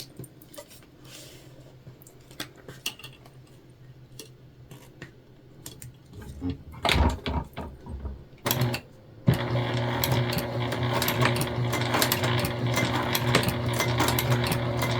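Quiet handling with a few clicks, then knocks and rustling as the work is set under the presser foot, then a domestic sewing machine starts about nine seconds in and runs steadily at speed, its needle clicking fast over a low motor hum, top-stitching a webbing handle onto vinyl.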